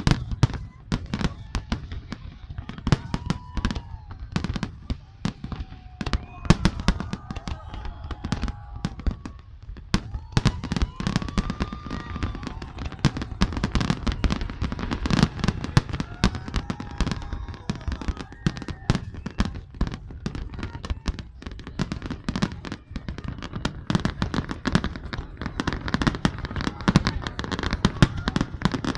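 Fireworks display: a rapid, unbroken barrage of bangs and crackling pops, many each second.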